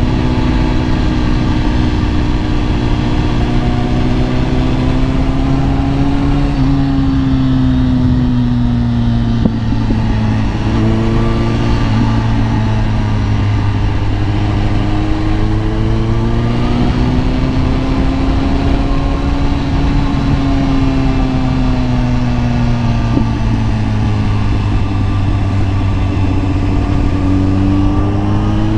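Kawasaki ZX-10R inline-four engine running under way, its pitch falling and climbing slowly several times as the throttle eases off and on, over a steady rushing noise.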